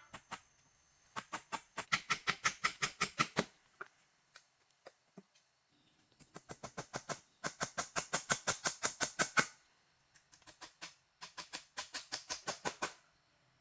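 Three runs of rapid, sharp strokes, about ten a second, each run lasting one to two seconds with short pauses between.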